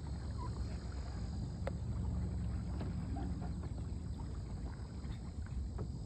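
Steady low rumble of wind and water around kayaks, with a few faint light clicks and splashes.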